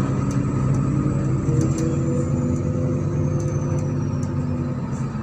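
MAZ-103 city bus under way: its engine and drivetrain run with a steady hum whose pitch drifts slightly, joined by a few light ticks and rattles.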